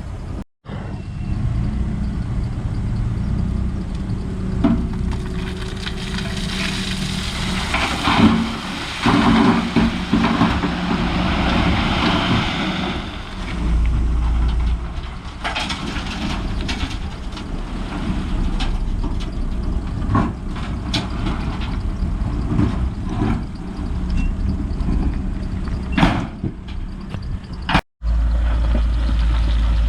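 Heavy earthmoving machinery running, with a louder stretch of scraping and clattering from about six to thirteen seconds in. The sound drops out for an instant twice, just after the start and near the end.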